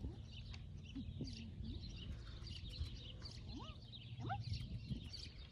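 Birds chirping and calling over a steady low rumble, with a couple of short rising calls a little past the middle.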